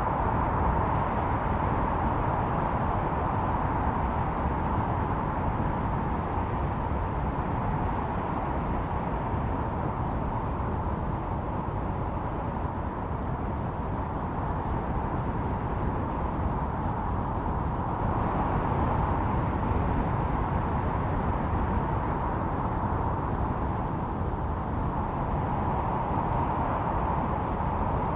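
Snowstorm wind howling steadily with a low rumble beneath, swelling in slow gusts and easing again.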